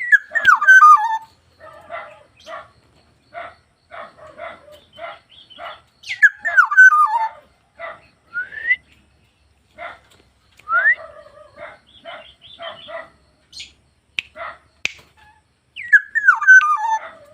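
Black-naped oriole singing: three loud, fluty whistled phrases that slide downward, near the start, about six seconds in and near the end. Between them runs a steady series of short, quieter calls, about two a second, with a couple of quick rising whistles.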